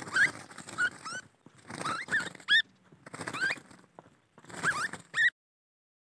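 Small birds chirping in four short bursts of quick rising calls, cutting off suddenly about five seconds in.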